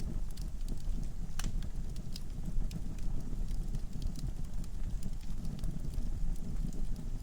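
Wood fire burning in a fireplace: a steady low rumble of the flames with scattered sharp crackles and pops from the logs, one stronger pop about a second and a half in.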